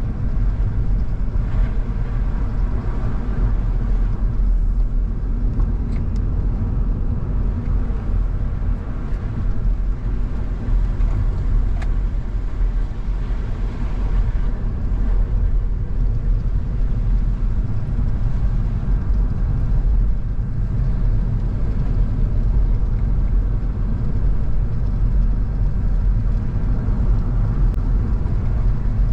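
Car driving at a steady pace, with engine and road noise making a continuous low rumble.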